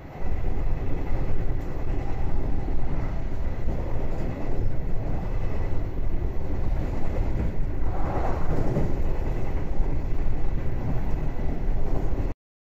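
Passenger train running along the track, heard from inside the carriage: a steady low rumble of wheels on rail, cutting off abruptly near the end.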